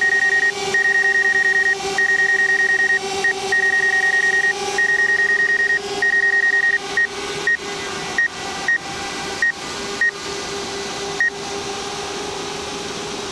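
DJI Mavic Air quadcopter's propellers humming steadily in flight, with trains of rapid high electronic beeps over them. The beeps thin to single beeps about seven seconds in and stop about eleven seconds in.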